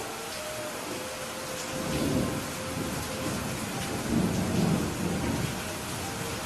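Steady rain with thunder rumbling twice: a short roll about two seconds in and a longer, louder one from about four to five and a half seconds.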